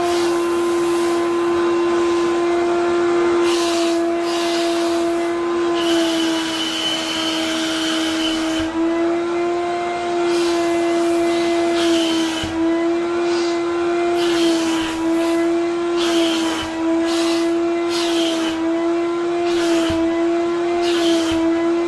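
Wet vacuum cleaner running with a steady motor whine that sags slightly in pitch now and then under load, with repeated short hissing surges of air and suction.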